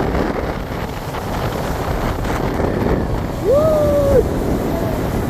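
Wind buffeting the microphone in a steady rumble and hiss. About three and a half seconds in, a short pitched tone rises, holds for under a second and drops away.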